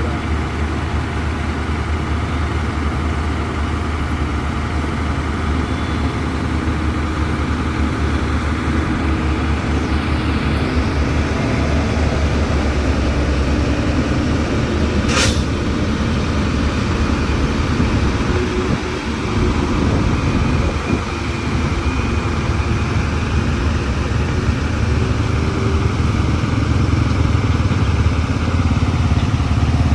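Heavy diesel engine running steadily, growing a little louder near the end, with one sharp click about halfway through.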